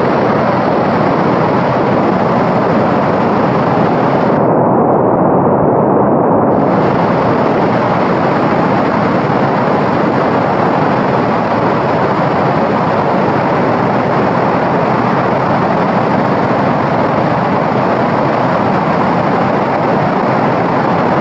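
Steady, loud white noise for sleep: an even hiss weighted toward the lower range. Its upper hiss briefly thins out for about two seconds about four seconds in.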